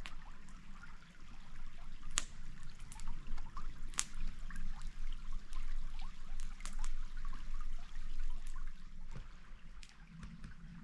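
Stream water trickling steadily, with scattered sharp clicks, two louder ones about two and four seconds in.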